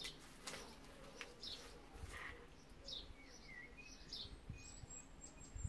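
Faint outdoor background with scattered short bird chirps and a few soft clicks.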